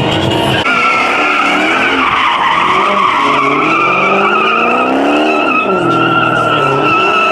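A car's tires squealing steadily under hard wheelspin while its engine revs rise and fall over and over.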